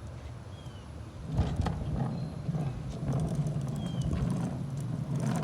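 Strong wind buffeting the microphone as a low rumble that grows stronger about a second in, with scattered knocks and clatter. Two short, high falling chirps come through, one early and one near the end.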